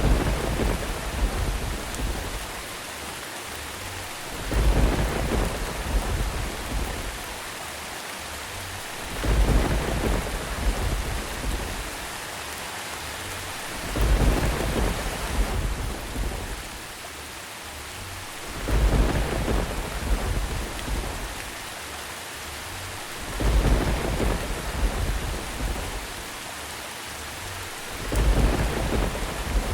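Steady rain falling, with rolls of thunder at even intervals of about five seconds. Each roll swells suddenly and rumbles away over two or three seconds.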